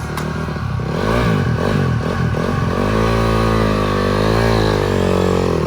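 Motocross dirt bike engines revving, the pitch rising and falling through the gears. From about three seconds in, an engine holds a steadier, slightly wavering pitch.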